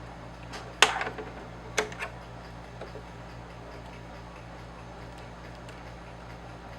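A few sharp knocks: a loud one about a second in, a second about a second later with a small click right after it, then a faint tick, over a steady low hum.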